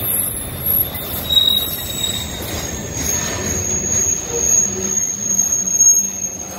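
Steel wheels of a freight train of lumber-laden centerbeam flatcars rolling past at close range, with a low steady rumble. A thin, high-pitched wheel squeal comes in briefly about a second in and holds steady over the second half.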